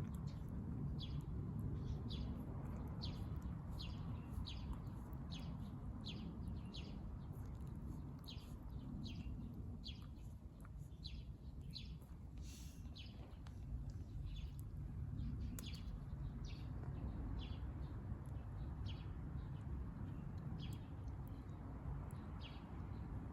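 A small bird chirping over and over, short high notes sliding down, about two a second and thinning out in the second half. A low steady rumble runs underneath.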